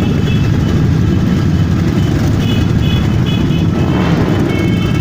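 Motorcycle engines running in a steady, loud, low drone.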